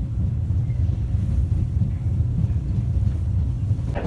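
Steady low rumble of a JNR express-type electric train running, heard from inside the passenger car.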